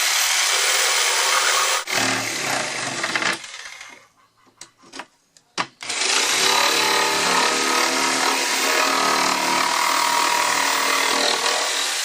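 A power tool runs in two stretches: about three seconds with a high motor whine, then a quiet gap with a few clicks, then running again from about six seconds in.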